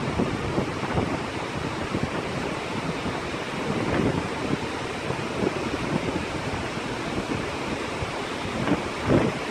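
Steady hiss of rain falling, with gusts of wind buffeting the microphone now and then, strongest near the end.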